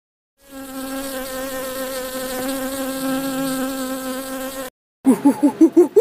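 A flying insect's buzz, one steady low-pitched drone held for about four seconds and then cut off. About a second before the end, a different animal starts a fast run of short rising calls.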